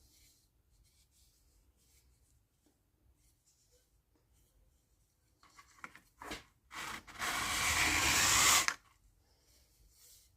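Wood being sanded by hand against a worn 80-grit sanding belt: a few short scrubbing strokes about halfway through, then one longer, louder rasping stroke near the end.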